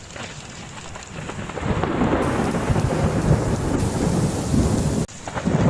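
Rain falling with rolling thunder from a severe thunderstorm, the rumble swelling about a second and a half in. The sound cuts off abruptly about five seconds in and comes straight back.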